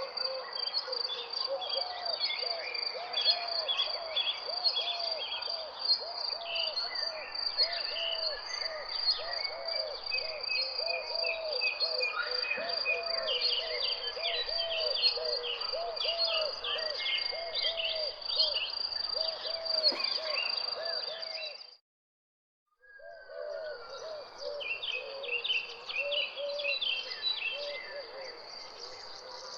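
Dense chorus of birds chirping over a steady high insect trill, with a low hooting call repeating about twice a second. The whole chorus cuts out for under a second about two-thirds of the way through, then resumes.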